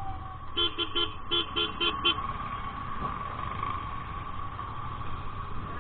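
A vehicle horn tooted in short quick beeps, about seven of them: three, a brief pause, then four. A steady high-pitched tone and low road rumble sit underneath.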